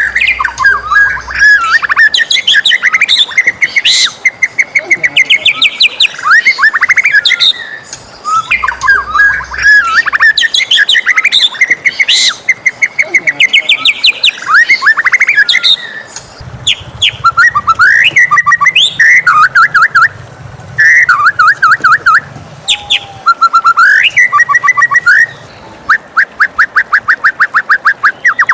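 White-rumped shama singing loudly and continuously: a varied song of whistled phrases, quick trills and fast runs of repeated notes, ending in a rapid even string of notes.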